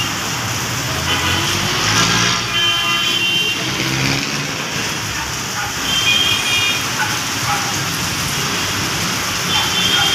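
Busy city road traffic: a steady hiss of tyres and engines, with a heavier vehicle's engine passing a couple of seconds in. Short high-pitched tones come and go three times.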